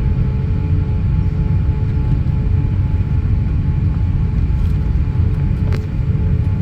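Steady low rumble of an Airbus A350-900's Rolls-Royce Trent XWB engines and airframe, heard from inside the passenger cabin, with a faint steady hum above it and one brief click near the end.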